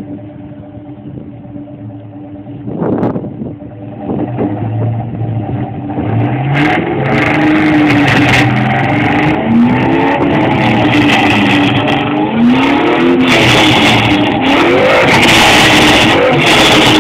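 1999 Ford Mustang Cobra's 4.6-litre DOHC V8 through an off-road X-pipe and Flowmaster mufflers, idling steadily and then revved up and down again and again. It gets louder a few seconds in and stays loud.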